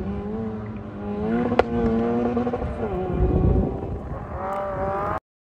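Honda Civic's engine revving up and falling back several times as the car is driven hard through an autoslalom course, with one sharp crack about a second and a half in. The sound cuts off suddenly near the end.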